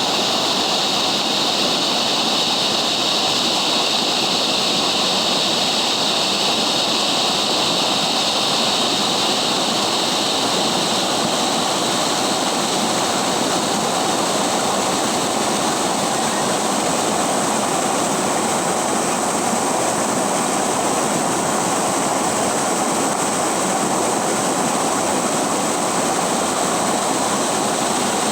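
River water rushing and babbling, a steady even flow.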